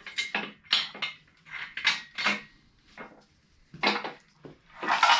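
Irregular metal clanks, about ten, from broken connecting rod and piston pieces tumbling inside a wrecked 5.3-litre LS engine block as it is rotated over on an engine stand. Near the end water starts to pour out with a rushing sound.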